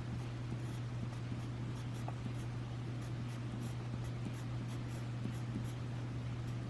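Pen writing on paper in short scratchy strokes over a steady low electrical hum.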